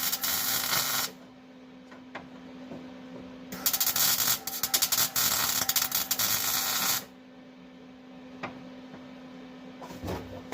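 Arc welding on a car's sheet-metal floor patch: two bursts of crackling arc, the first stopping about a second in and the second lasting about three and a half seconds, with a steady electrical hum between them.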